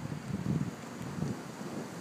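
Gusty wind buffeting the microphone outdoors in a thunderstorm, a low uneven rumble that swells about half a second in.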